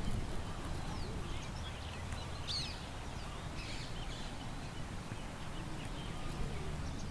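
Small birds chirping in scattered short calls, with one louder call about two and a half seconds in, over a steady low rumble of wind.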